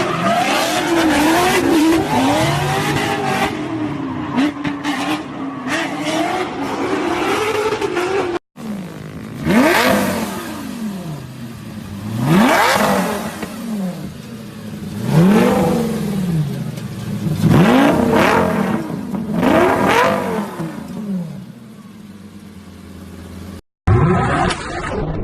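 A car engine revving up and down with a wavering note. After a sudden cut, about five fast cars pass one after another, each engine note climbing and then dropping away as it goes by.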